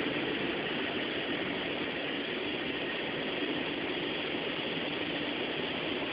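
Automatic car wash air blower running, heard from inside the car's cabin: a steady, even rushing noise.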